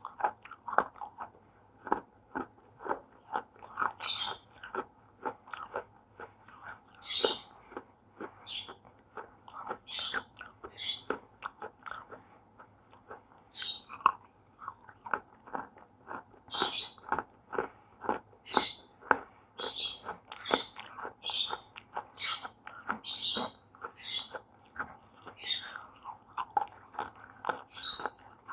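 Slate pencils being bitten and chewed: an irregular run of sharp crunches and cracks, with a louder bite every second or two.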